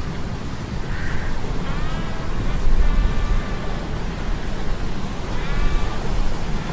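Sea storm ambience: a steady, loud rumble of wind and surf, with several short high-pitched squeals that bend up and down in pitch breaking through it.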